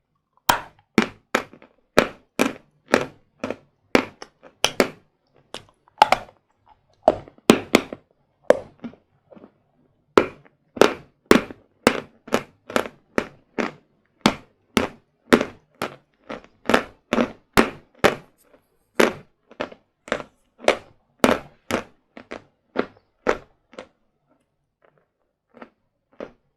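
Hard sawn Vatutin chalk being chewed: a steady run of sharp, crisp crunches, about two a second, dying away near the end.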